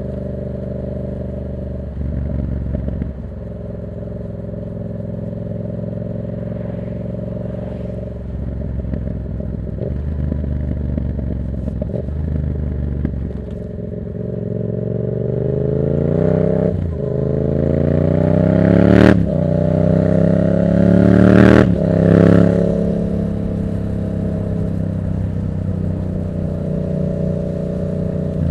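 Yamaha MT-07's parallel-twin engine through a straight-through aftermarket exhaust with its dB killer removed, running at steady cruising revs. It then accelerates, with the engine note rising for several seconds and two sharp cracks during the climb, before easing off back to a steady note.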